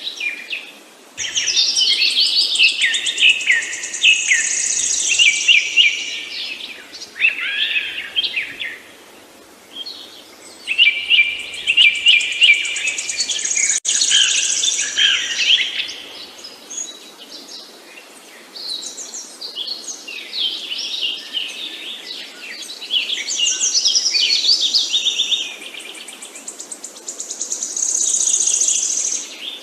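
Songbirds singing in quick chirping and trilling phrases, in bouts of several seconds with short pauses between, over a faint steady background hiss.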